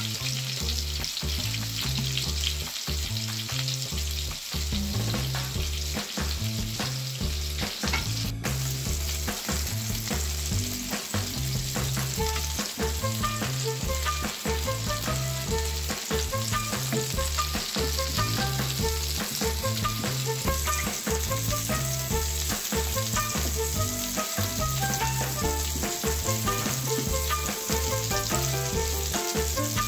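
Chicken burger patties sizzling steadily as they fry in oil in a grill pan, with a wooden spatula moving them about. Background music with a repeating bass line plays over the sizzle.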